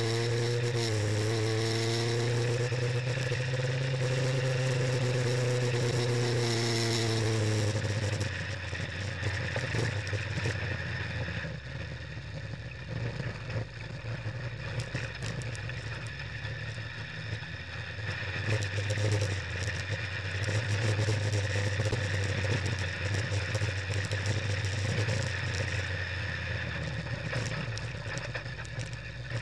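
Engine of a Volkswagen Beetle-based Bugster off-road race car heard from inside its cockpit, its note rising and falling under hard driving for about eight seconds. After that the engine note drops back and rattling of the car and gravel noise take over.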